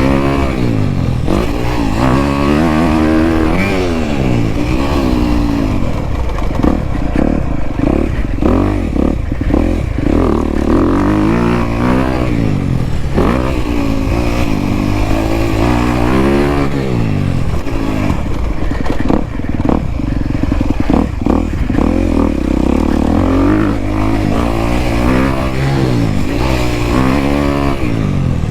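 Dirt bike engine under hard riding, its pitch rising and falling over and over as the throttle is opened and shut and the gears change around the track.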